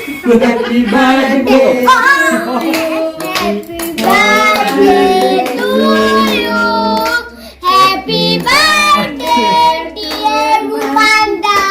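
A group of voices, children's among them, singing a birthday song, with hand claps.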